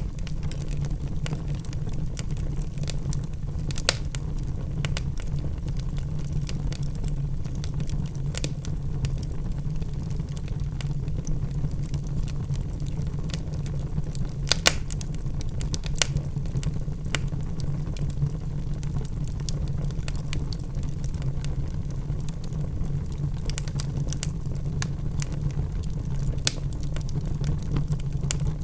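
Wood fire burning in a fireplace: a steady low rumble with scattered crackles and pops of burning logs, a few sharper pops about four seconds in and near the middle.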